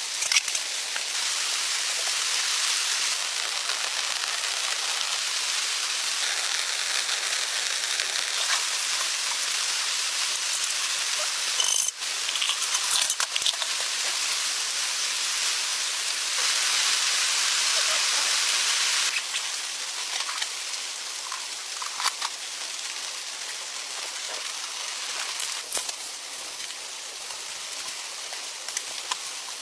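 Heavy rain falling in a steady hiss, with scattered sharp drops tapping close by. It swells for a few seconds past the middle, then eases somewhat.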